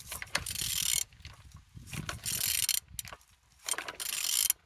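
ML60YPG (1K10) engine being turned over by hand with a wrench, in three strokes of clicking, rasping mechanical noise. It turns freely, a sign the engine is not seized.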